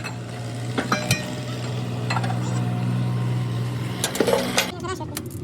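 A steady low machine hum with a few sharp metal clinks and knocks over it; the hum stops about four and a half seconds in.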